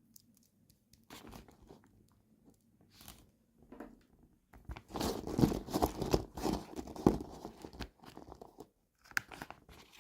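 Toy packaging being torn open and crinkled by hand: scattered rustles at first, then a dense burst of crackling and tearing in the middle, tapering off into a few rustles near the end.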